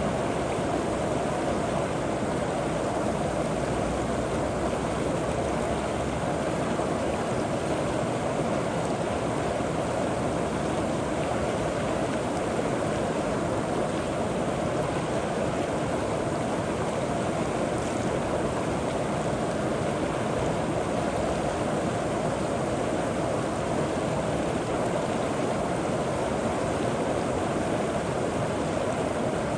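River water running steadily over rocks, a continuous rushing with no breaks.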